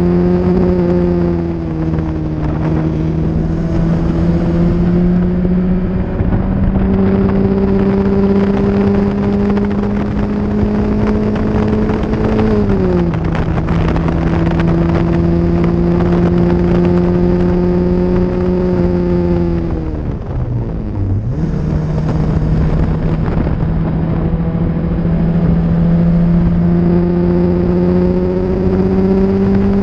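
1976 Lancia Scorpion's twin-cam four-cylinder engine, fitted with a hot exhaust cam, running hard at high revs, heard from inside the open-topped cabin. Its pitch climbs slowly, drops sharply about twelve seconds in, and dips deeply around twenty seconds before climbing again.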